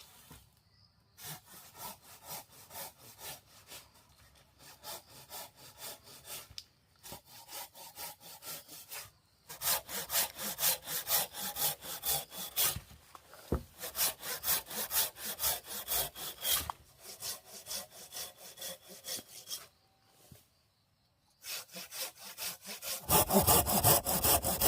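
Hand saw cutting wood in steady back-and-forth strokes, about two to three a second, with a few short pauses. The strokes get louder about ten seconds in and louder again near the end.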